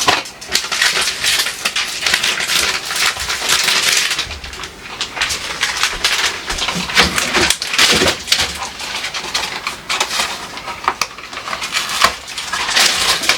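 Hands-on cleaning of a refrigerator: steady rubbing and scrubbing noise broken by many small knocks and clatters of items and shelves being handled.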